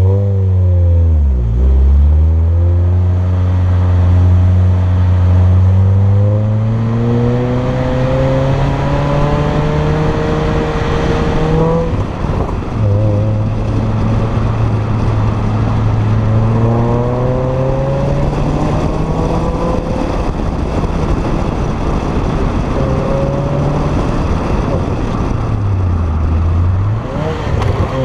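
Renault Clio 3 RS's 2.0-litre four-cylinder engine through a K-tec KTR aftermarket exhaust, pulling hard with the revs climbing slowly for several seconds. The revs drop sharply about twelve seconds in, climb again, and dip briefly a couple of times near the end as the driver shifts and lifts.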